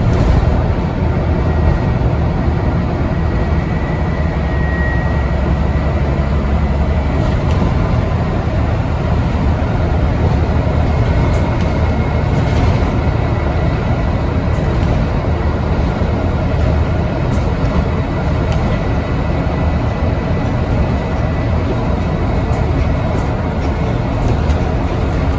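Scania N94UD double-decker bus with ZF automatic gearbox under way, its engine and running gear giving a steady loud drone heard from on board. The low rumble is heavier for the first several seconds, then eases slightly.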